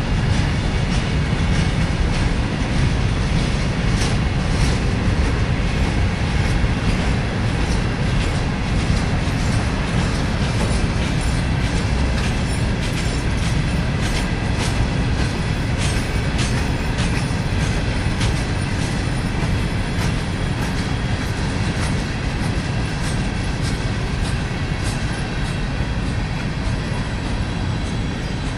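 Freight train's gondola cars rolling past: a steady rumble of steel wheels on the rails with repeated clicks and clacks as the wheels cross rail joints, easing off slightly near the end as the last cars go by.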